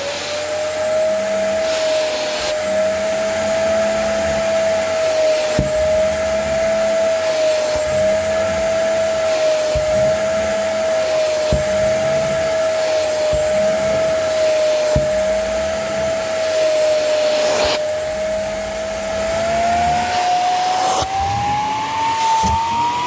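A small vacuum-type electric motor running steadily with a strong whine, which climbs in pitch over the last few seconds.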